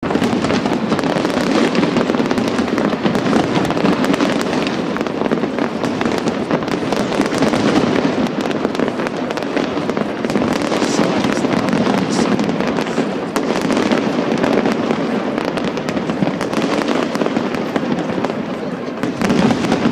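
Fireworks display with dense, continuous crackling and popping, the shell bursts running together rather than standing out as single bangs.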